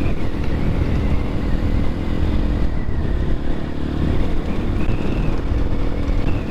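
X-Pro Templar X 250 dirt bike engine running steadily while being ridden.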